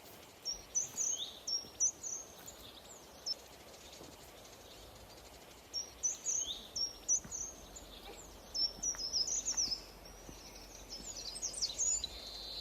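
A small songbird singing: quick runs of high, short, falling chirps, repeated in several bursts with pauses between them, over a faint outdoor hiss.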